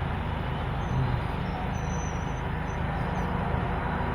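GO Transit diesel train running steadily at the platform, a low, even engine drone.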